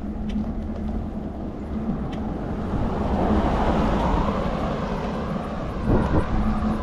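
Bicycle ride heard from a handlebar-mounted action camera: steady wind and road rumble with a constant low hum, swelling louder for a couple of seconds in the middle, and a couple of jolts near the end.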